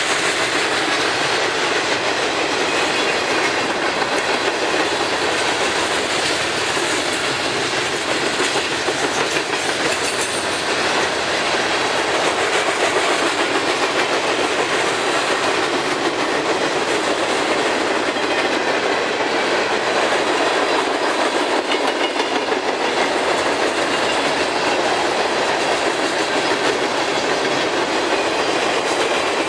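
A long freight train's cars rolling steadily past, with steel wheels running on the rails.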